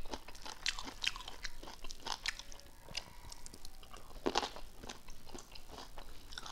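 Close-miked eating sounds: people chewing and biting food, with irregular smacks and crunches and no steady rhythm.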